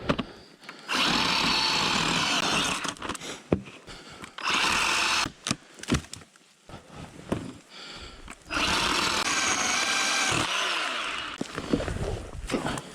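Power saw cutting through deadfall on the trail in three runs, the longest about three seconds. Between the cuts it goes nearly quiet, with scattered knocks and snaps of wood.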